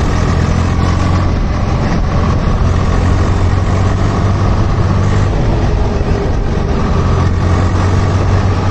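Tractor's diesel engine running steadily with a low, even hum.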